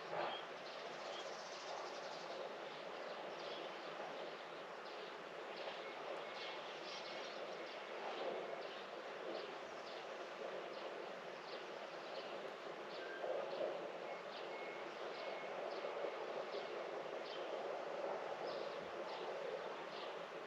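Small birds chirping again and again in short high calls over a steady background hiss, with two faint runs of quick high pips.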